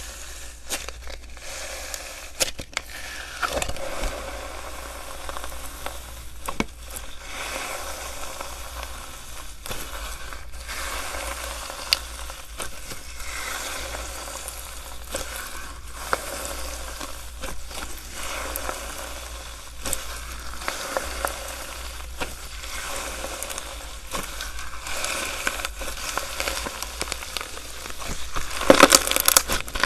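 Slime being squeezed and worked by hand, making a continuous wet crackle with many small pops. The crackling gets louder and denser near the end.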